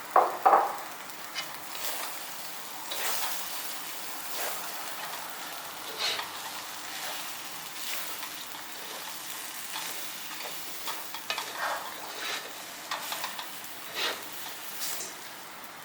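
Ramen noodles and bean sprouts sizzling as they are stir-fried in a hot pan, with a utensil scraping and knocking against the pan at irregular intervals. Two loud clatters come about half a second in.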